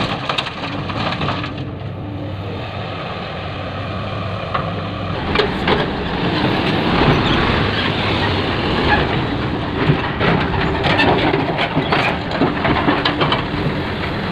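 A dump truck's engine running while stone is loaded into its bed: rocks clatter and crunch, the crunching growing denser and louder from about five seconds in.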